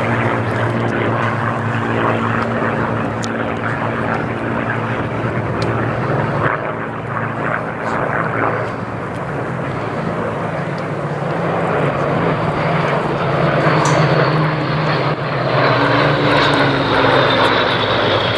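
Piston engines of Second World War fighter aircraft (Spitfires and Hurricanes) droning steadily in flight. They grow louder in the second half, and a high whine falls in pitch near the end as an aircraft passes.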